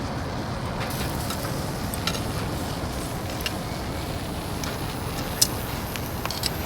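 Fire crackling in a Uniflame Fire Grill brazier: scattered sharp pops over a steady low rushing noise, with one louder pop about five seconds in.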